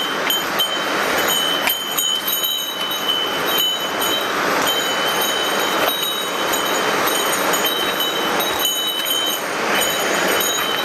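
Mountain stream rushing steadily over rocks, with a few scattered short knocks.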